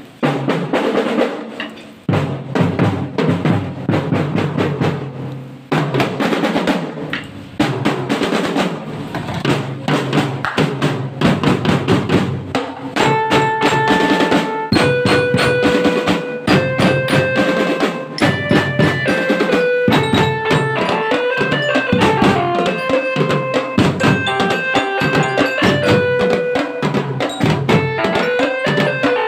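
Marching drum band playing: snare and bass drums beat a rapid cadence. About halfway through, melody instruments join with held notes over the drums.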